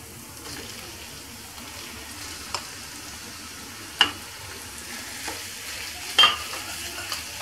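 Minced beef and onions sizzling steadily in olive oil in a nonstick frying pan as the meat is scraped in from a bowl and stirred with a silicone spatula. Sharp knocks of the spatula against the bowl and the pan come several times, the loudest about four and six seconds in.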